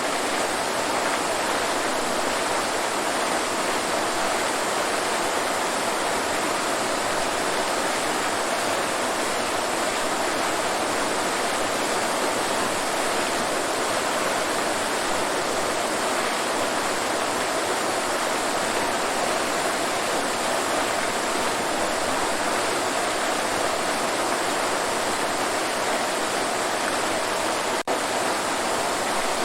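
Waterfall: a steady, unbroken rush of falling water, with a split-second dropout near the end.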